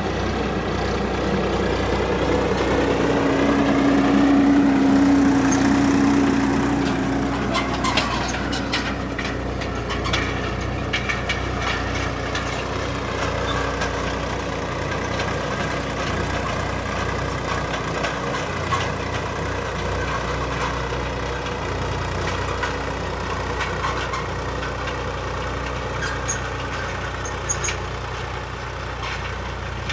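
Swaraj 969 FE tractor's diesel engine running, louder for a few seconds near the start and then settling to a steady run, with scattered short clicks.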